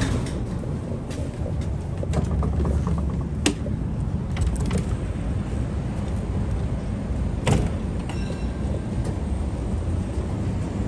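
Tram running on its rails: a steady low rumble with a few sharp knocks and a short run of clicks.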